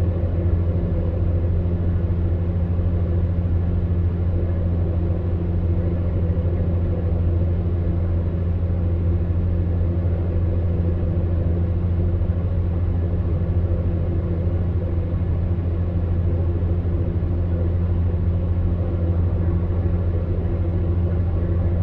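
Electric fan heater running steadily: a low, even hum from its fan motor with a soft rush of blown air.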